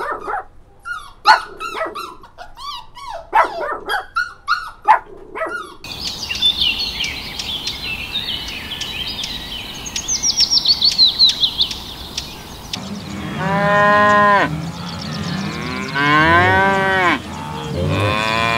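A small white dog yapping and whining in short calls, then about six seconds of a swamphen's high, rapid chattering calls, then cattle mooing: three long moos, each rising and then falling in pitch.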